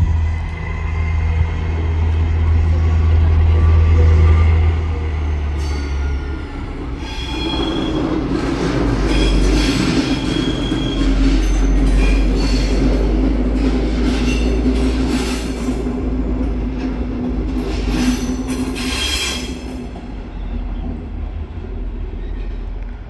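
A diesel shunting locomotive's engine runs with a deep steady hum for the first several seconds. Then a double-deck regional train rolls past, its wheels rumbling and rattling on the rails, with high wheel squeals starting about seven seconds in and again near the end.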